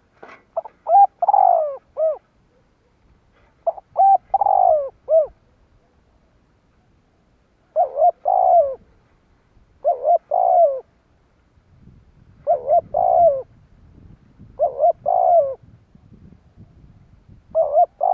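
Spotted dove cooing: seven short phrases of a few rounded coo notes each, repeated every two to three seconds.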